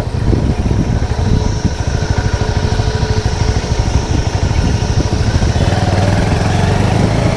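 Motorcycle engine running steadily while the bike is ridden along a hill road, its note settling into a steadier hum near the end.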